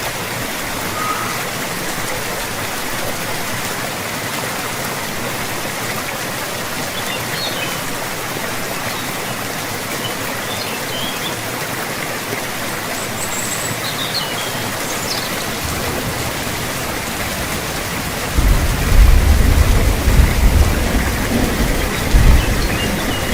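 Steady heavy rain hissing evenly. About three quarters of the way through, a low roll of thunder builds and rumbles loudly for the last few seconds.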